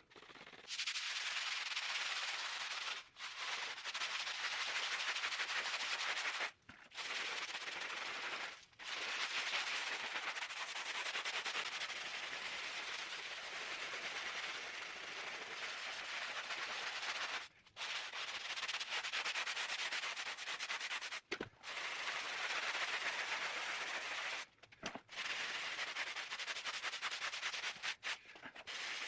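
Stiff scrub brush scrubbed hard against an old, moldy concrete basement wall, a continuous rapid rasping broken by several short pauses.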